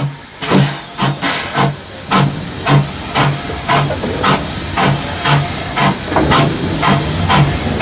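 Steam locomotive working steadily, its steam puffing in an even beat of about two a second, each puff with a low thump, over a constant hiss of steam.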